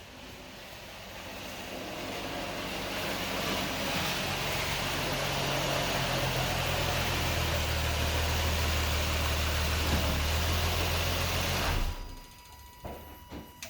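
A motor vehicle engine running steadily with a low hum, growing louder over the first few seconds and cutting off abruptly about twelve seconds in.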